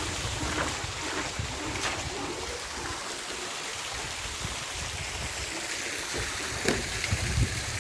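Steady rushing of a small river's flowing water, with a couple of short knocks, one about two seconds in and one near the end.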